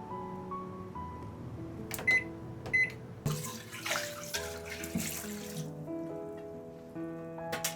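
Water running from a tap into a sink for about two seconds, a little after two light clinks, over soft background music.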